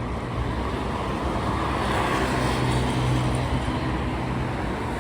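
Steady rumble and hiss of a moving vehicle, with a low hum throughout and the hiss swelling slightly mid-way.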